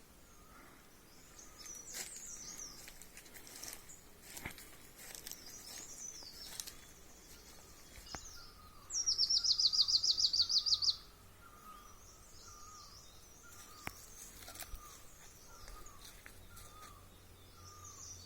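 Wild birds singing. Several high chirping calls overlap with a lower short call repeated every second or so, and about nine seconds in one bird gives a loud, rapid trill of about fifteen high notes lasting two seconds.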